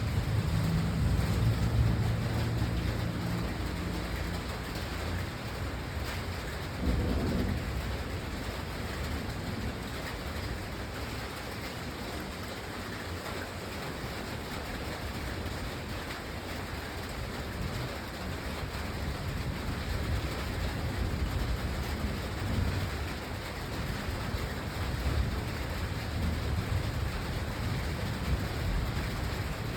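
Steady rain, with low rumbles of thunder coming and going: strongest in the first few seconds, a short swell at about seven seconds, and more rolling in the second half.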